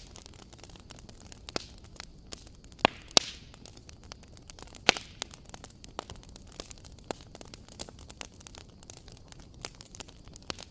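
Wood fire crackling: scattered sharp pops and snaps over a low steady hiss, with a few louder pops about three and five seconds in.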